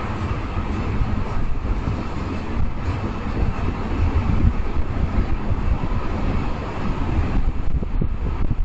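CN freight train rolling past on the track, a steady rumble of wheels and cars.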